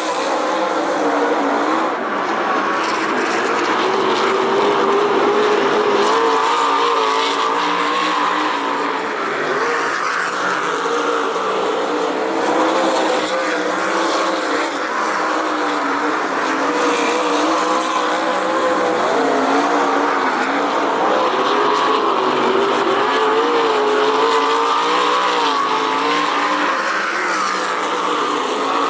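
Sprint car V8 engines running at race speed, their pitch rising and falling continuously as the cars lap the track.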